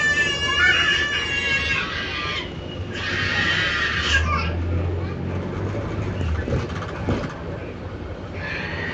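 High-pitched squeals and shrieks from children on board a bus, in the first few seconds, over the steady low drone of the bus engine. A few short rattles come later.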